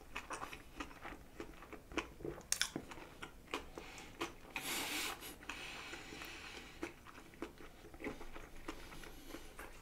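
Close-up chewing and biting of a roasted pork belly bao with crispy skin: irregular small crunches and wet mouth clicks.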